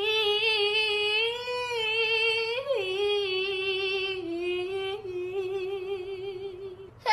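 A high female voice singing one long, drawn-out note with a wavering vibrato, without words. It slides down in pitch a little under three seconds in and settles a step lower past the middle, then breaks off near the end.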